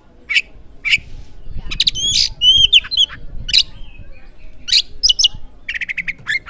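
Oriental magpie-robin (kacer) song: short, sharp, high whistled notes and chirps with slurred downward glides, broken by brief pauses, and a quick rattling run of clicks near the end.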